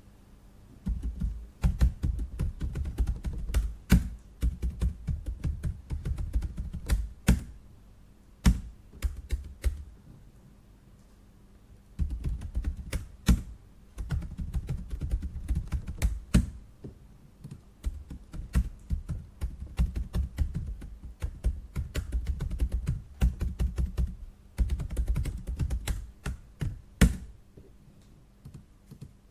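Typing on a computer keyboard: fast runs of keystrokes broken by pauses of a few seconds, with a few louder single key presses among them.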